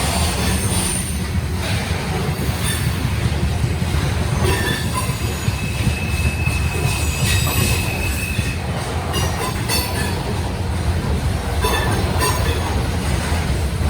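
Freight cars of a long grain train rolling past, a steady low rumble of steel wheels on rail with scattered clicks and a thin wheel squeal held for a couple of seconds about halfway through.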